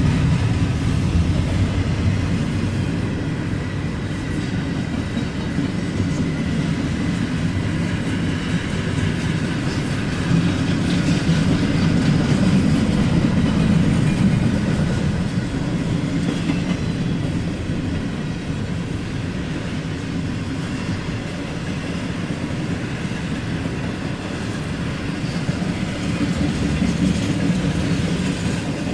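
Cars of a long CSX freight train, a mixed Tropicana juice and intermodal train, rolling steadily past at close range. It makes a continuous heavy rumble with the clatter of wheels on the rails and a faint steady high ring.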